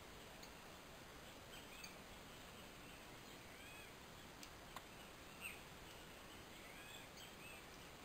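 Faint bird chirps: short, arched high notes heard several times over a steady low hiss, with one sharp tick about halfway.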